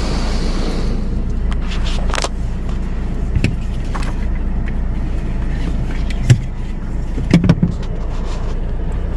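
Heard from inside a car in a touchless automatic car wash: the hiss of water jets spraying the car fades out about a second in, leaving a steady low hum from the car with a few scattered sharp knocks.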